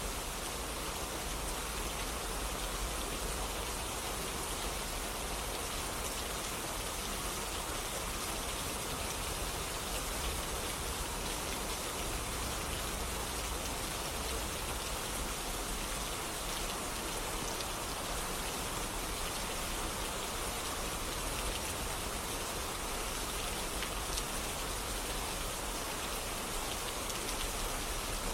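Steady rain falling, an even hiss with scattered individual drops hitting surfaces.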